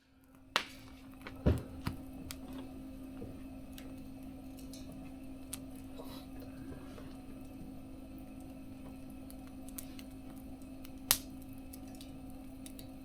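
Wood fire crackling in a small mesh fire stove: scattered light crackles and three sharp pops, about half a second, a second and a half and eleven seconds in, over a steady low hum.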